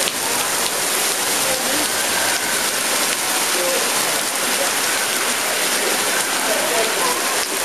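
Heavy rain pouring onto a wet city street and pavement: a steady, dense hiss. Faint voices of passers-by sound under it.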